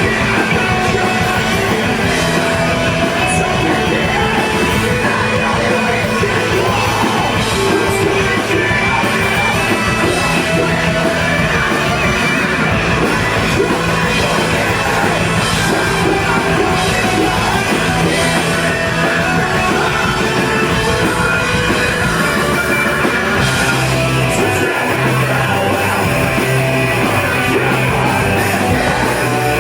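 Screamo/post-hardcore band playing live at full volume, with shouted vocals over the band.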